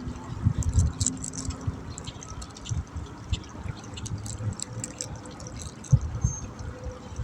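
Water splashing and trickling with scattered drips, under irregular low thumps, the sharpest about six seconds in.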